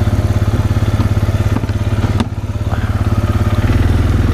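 Four-wheeler (ATV) engine running at low speed with a steady, fast pulsing beat. A couple of sharp knocks come around the middle, and the engine note deepens slightly near the end.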